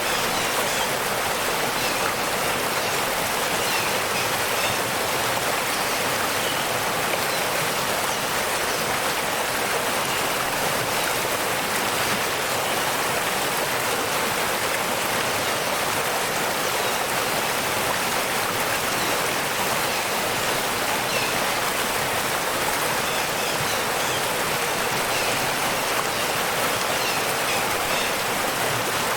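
Waterfall: a steady, unbroken rush of falling water, heavier in the upper range with little low rumble.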